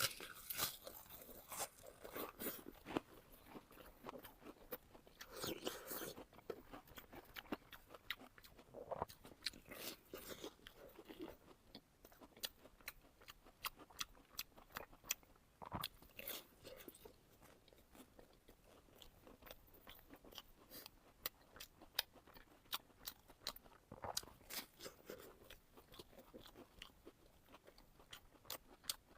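A person chewing and biting crisp fried food close to the microphone: a steady run of small crunches and wet mouth clicks, with louder crunchy bites every few seconds.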